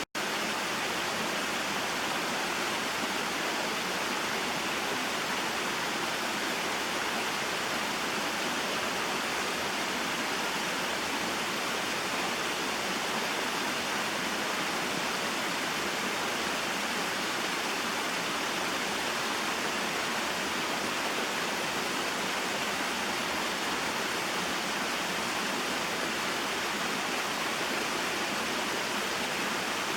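Small waterfall and mountain stream: water falling and flowing in a steady, even rush, with a momentary cut-out in the sound right at the start.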